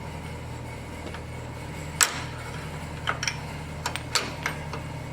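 Sharp metallic clicks and taps of a tool prying a retaining clip off a Hydro-Gear mower transmission. The loudest click comes about two seconds in, and a run of lighter clicks follows in the second half, over a steady low hum.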